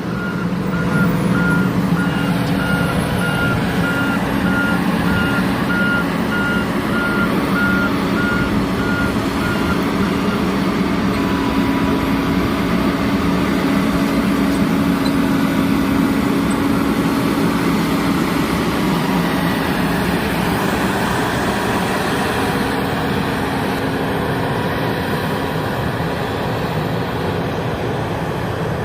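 A large vehicle's engine running steadily, with a backup alarm beeping repeatedly for about the first ten seconds before it stops.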